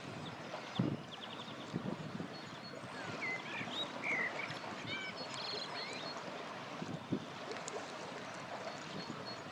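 River flowing steadily, with several pops from a crackling campfire, the loudest about a second in, near two seconds and near seven seconds. Birds chirp over it with short high calls and trills, most of them in the first half.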